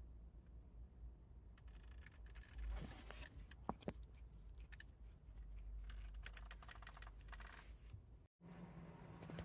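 A quick run of small clicks and scratchy rustles, like tapping or light handling, over a low hum.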